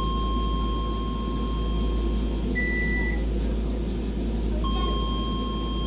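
Electronic warning tones inside a Docklands Light Railway train: a long steady beep of about two and a half seconds, a short higher beep, then the long beep again near the end, over the train's steady low hum.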